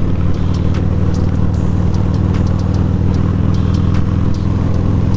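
Harley-Davidson Electra Glide's air-cooled V-twin engine running steadily at one pitch while cruising on the road.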